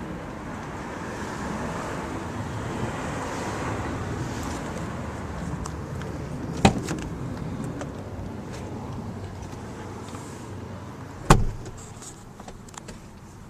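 Steady outdoor rushing noise with two sharp knocks about four and a half seconds apart, the second the louder.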